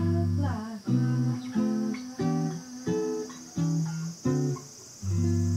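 Acoustic guitar playing a run of about seven chords, one every second or less, then letting one chord ring from about five seconds in. Cicadas buzz steadily in the background as a high hiss.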